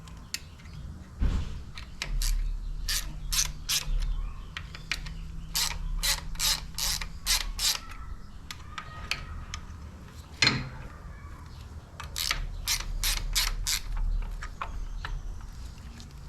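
Ratchet wrench clicking in three short runs of quick, even strokes as it turns the threaded drive of an Evo cam bearing installer tool, with a couple of single knocks of the tool in between.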